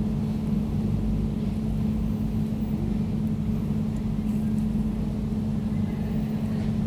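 Air conditioner running steadily: a low, even hum with a steady droning tone at about 200 Hz.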